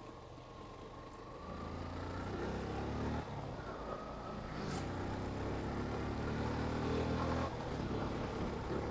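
Yamaha FZ motorcycle engine pulling under throttle, its note rising and growing louder as the bike accelerates, with sudden brief drops about three seconds in and again near the end.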